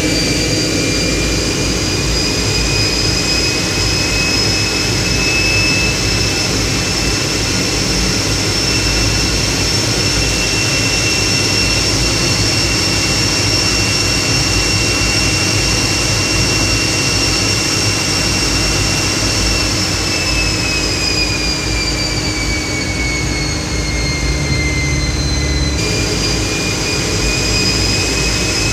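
T-33 jet trainer's turbojet engine running at a steady ground-run power, heard from the cockpit, a high whine over a low rumble. The whine rises slightly, sags in pitch about two-thirds of the way through, then jumps back up abruptly near the end.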